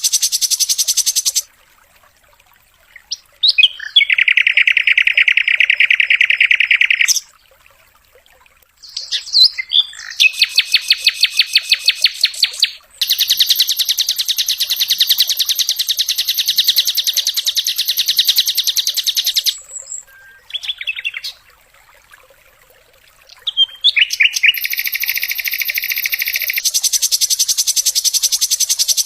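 Sikatan londo, a flycatcher, singing in long rapid trills of repeated high notes, broken by short pauses about six times; these are the fast 'dor' shot notes that songbird keepers play to train their birds.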